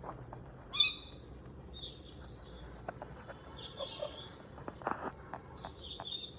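Indian ringneck (rose-ringed) parakeet making short calls: a loud one about a second in, then three softer ones spread through the rest, with a few light clicks in between.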